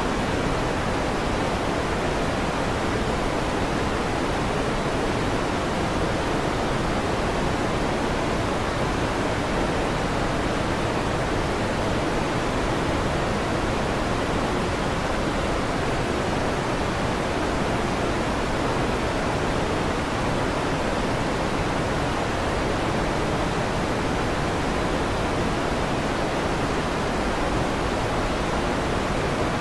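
Electric fan running steadily: an even, unbroken hiss with no change in level.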